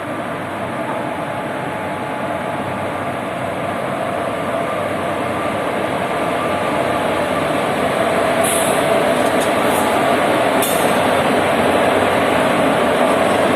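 Passenger express train running past the station platform, a steady rumble of wheels and coaches that grows steadily louder, with a few brief high-pitched hisses or squeaks about two-thirds of the way through.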